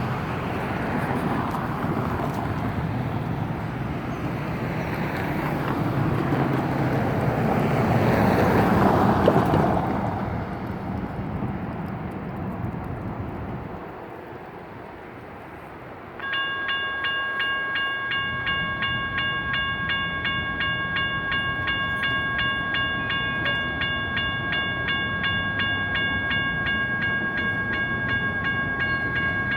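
A vehicle passes, loudest about nine seconds in, then fades to a lull. About sixteen seconds in, a General Signals Type 1 electronic crossing bell starts ringing rapidly and keeps ringing as the crossing activates for an approaching light rail train.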